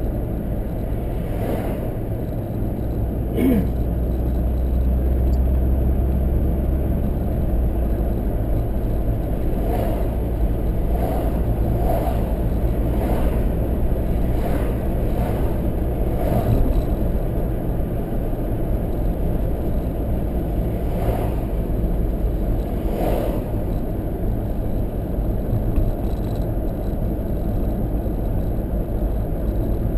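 Steady low rumble of a car driving, heard from inside the car, with a scattering of faint brief knocks and rattles.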